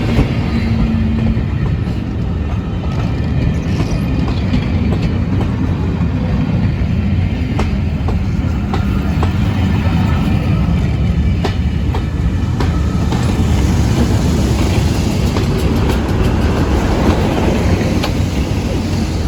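Diesel passenger train passing close by: a loud, steady rumble of engine and wheels, with wheels clacking over rail joints several times.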